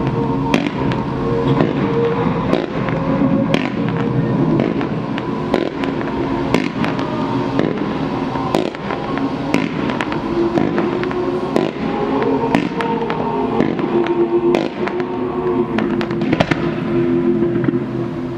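Fireworks going off in rapid, irregular bangs and crackles over a show's music soundtrack with held notes.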